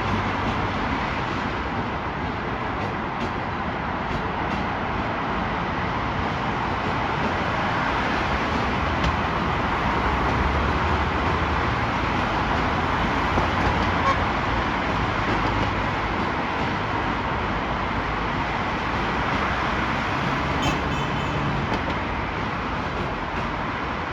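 Steady, even rumble and rush of vehicle noise, holding at one level without a clear approach or fade.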